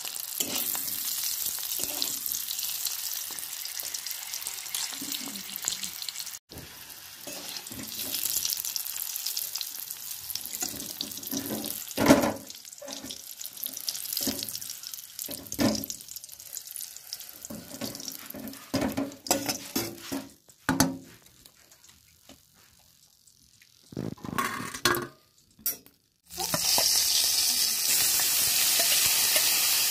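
Whole eggs sizzling in hot oil in a steel wok, with a metal spatula scraping and knocking against the pan as they are turned. Near the end a louder, steady sizzle starts as chopped onion goes into the hot oil.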